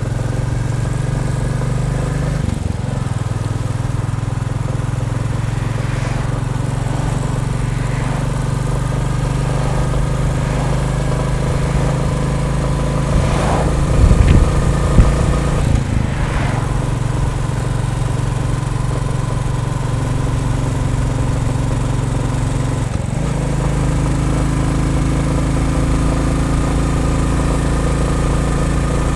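Royal Enfield Bullet 350's single-cylinder engine running steadily on the move, its note shifting about two seconds in and again about eight seconds from the end. About halfway through there is a brief loud rumble.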